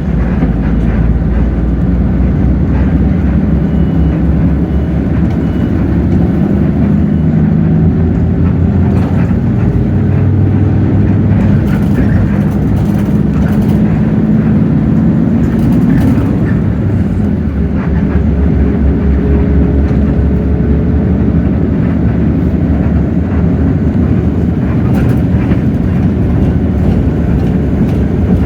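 Hino J08E-VN 7.7-litre straight-six diesel bus engine running under load, with a five-speed manual gearbox. The engine note climbs steadily for several seconds, drops back, then climbs again.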